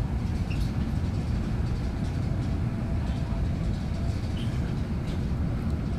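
Steady low rumble of a train in motion, heard from inside the passenger carriage, with a few faint light ticks over it.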